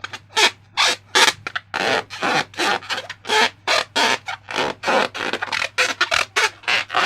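Slime being squished and worked by hand: an irregular run of short wet squelches, about two or three a second.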